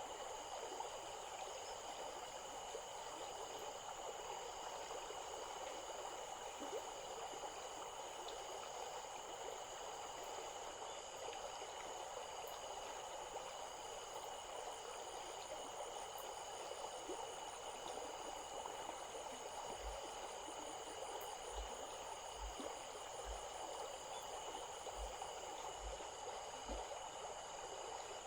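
Stream water flowing in a steady, even rush, with steady high-pitched tones and a faint pulsing chirp above it.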